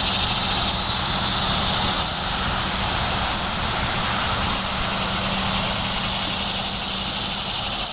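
Male annual cicada calling: a loud, steady, high buzz that holds without a break, the male's mating call to females.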